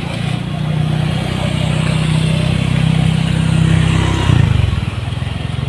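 A motorcycle engine running steadily, its pitch shifting and dropping about four seconds in.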